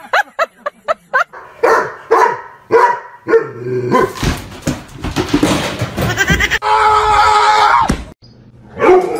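Dogs yelping in a rapid run of short, falling cries, then a few separate barks and yelps, a noisy scuffle, and a long held wavering cry that cuts off suddenly; one more short yelp comes near the end.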